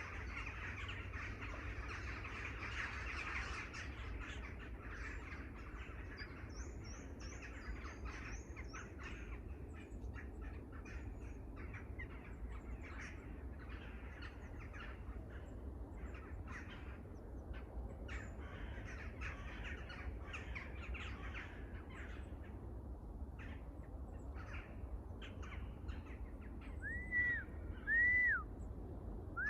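Many wild birds calling together, a dense chorus of short calls that is busiest at the start, with a few higher chirps. Near the end, louder clear arching calls begin, heard over a steady low rumble.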